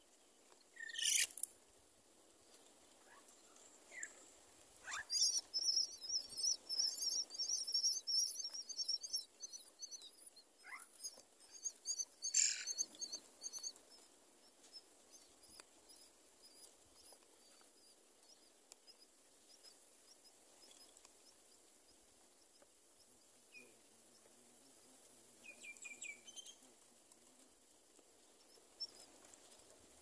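Birds chirping: a sharp rising call about a second in, then a rapid run of high chirps lasting about seven seconds with another sharp call near its end, and a few faint calls later.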